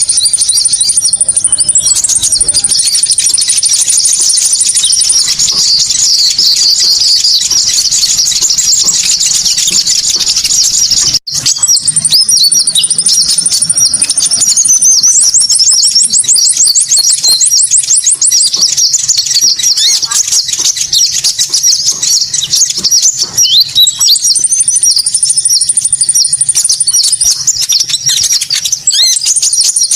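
Recorded konin bird-lure call: dense high-pitched chattering and chirping, with a thin high trill held for a few seconds at a time and a fast ticking trill about halfway through. The sound drops out for an instant about eleven seconds in, like a loop point.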